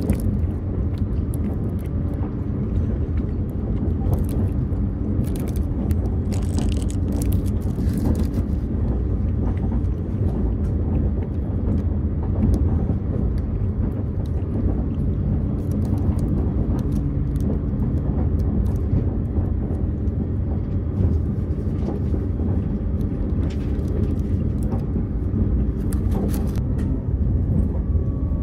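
Steady low rumble inside the passenger cabin of a running Azusa limited express electric train, with short crinkles of food packaging being handled now and then.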